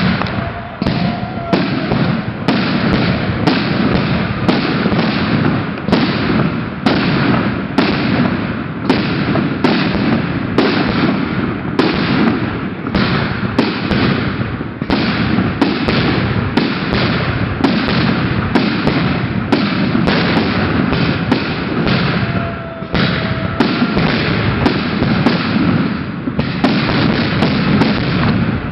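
Fireworks display: a dense, continuous barrage of bangs and booms from bursting shells, many a second without a break.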